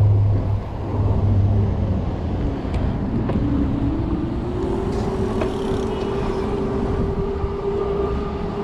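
Riding an electric bike: steady wind and road rumble, with a whine that rises about three seconds in and then holds at one pitch.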